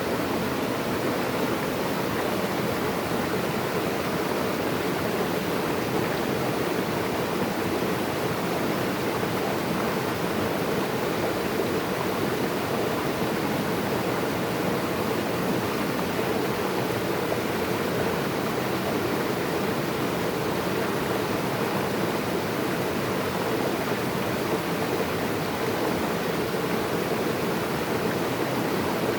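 Running water rushing steadily, like a waterfall or fast stream, a constant full-bodied wash with no breaks.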